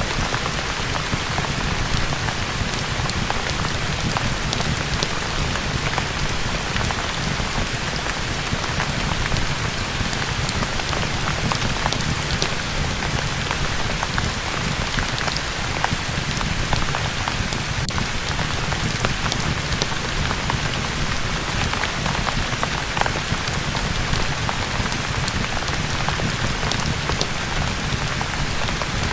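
Steady rain falling, an even wash of noise with many small scattered ticks.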